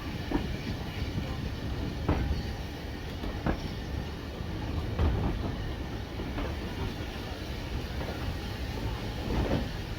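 Steam-hauled heritage train running on the line: a steady low rumble with irregular clanks every second or two.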